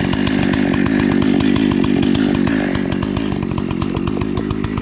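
Husqvarna 288XP two-stroke chainsaw running steadily, its engine firing in an even, rapid pulse.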